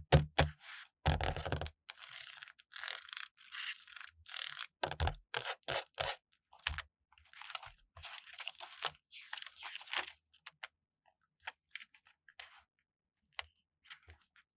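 Paper stickers being peeled off their backing sheet close to the microphone, a crisp crackling rip in a run of short strokes. A few heavier knocks come in the first two seconds, and it thins to sparse light taps and clicks near the end.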